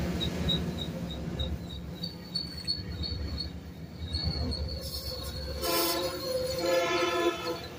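Metrolink bilevel passenger cars rolling past on the rails with a steady low rumble. A thin, high wheel squeal pulses at first and then holds steady. Two louder squeals come about six and seven seconds in.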